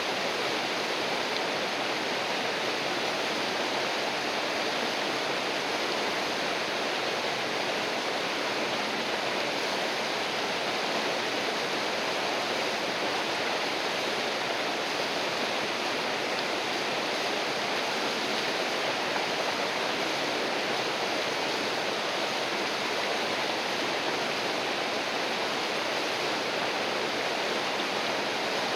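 River water rushing steadily, an even rush with no breaks or changes.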